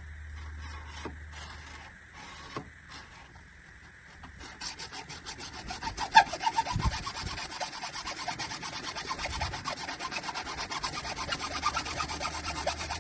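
Saw cutting through a drain pipe: a few light taps at first, then from about four and a half seconds in, quick, even back-and-forth rasping strokes.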